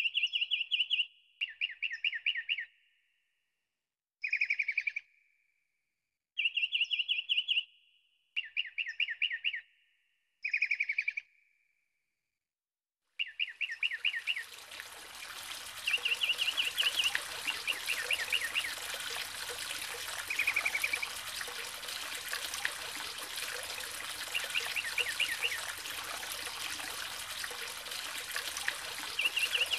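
A bird calling a short rapid trill again and again, each call about a second long with silence between. About halfway through, a steady rush of running river water comes in, and the trills go on over it.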